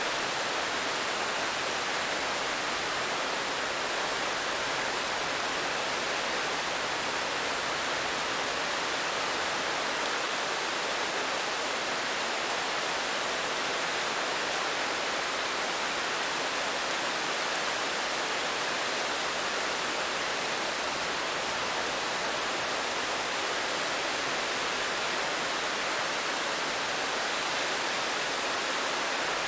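Steady rain, an even hiss without distinct drops or changes.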